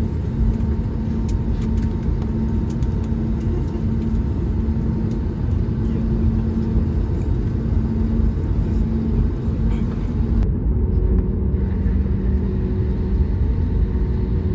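Cabin noise inside an Airbus A320neo with CFM LEAP-1A engines: a steady low rumble with an engine hum. About ten seconds in, the hum steps slightly lower in pitch as the engine setting changes.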